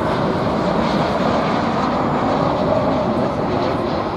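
Jet airliner's engines heard loud and steady as the aircraft passes close by, a broad rushing noise that eases slightly near the end.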